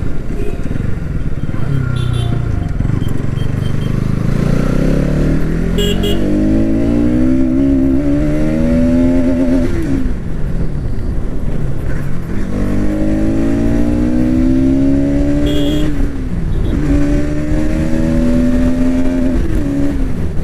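Bajaj Pulsar NS200's single-cylinder engine accelerating hard under load, its pitch climbing steadily and dropping back at each upshift, three times in all, with wind rush throughout.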